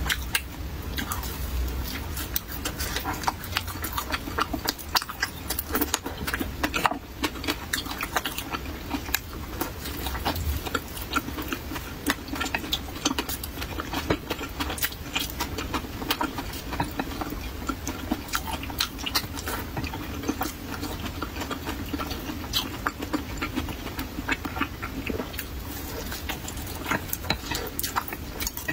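Mouth sounds of a person chewing a soft fried pumpkin cake: many small, irregular clicks and lip smacks, several a second.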